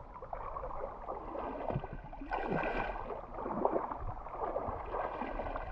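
Shallow river water flowing and sloshing, with small irregular splashes.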